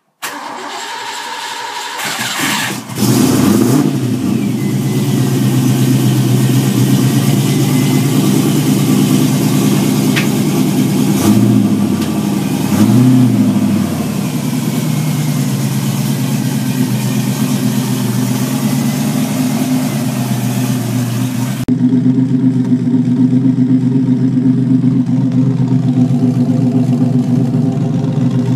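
TVR Chimaera 4.0's V8 on its standard exhaust, cold-starting: it cranks for about two seconds, catches about three seconds in and settles into idle, with two brief rises and falls in revs a little before halfway. Near the end it cuts to the same engine idling steadily when warm.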